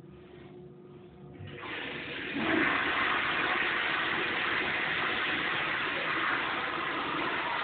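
Toilet flushing: a rush of water starts about a second and a half in, swells to full strength a second later and keeps running.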